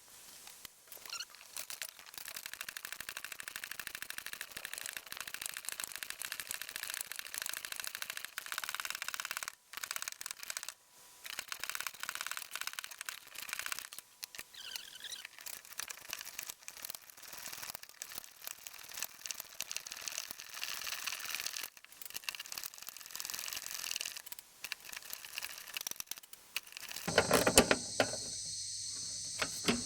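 Hand ratchet wrench clicking rapidly as it works the bolts holding a mower deck spindle, in long runs with short breaks. Near the end louder knocks of metal come in over a steady high shrill.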